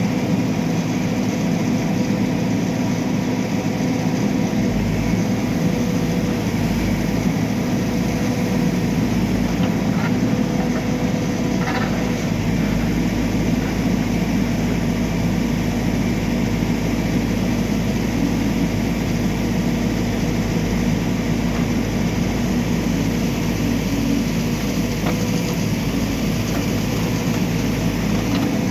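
Backhoe loader's diesel engine running steadily, with a constant drone and a few steady tones over it.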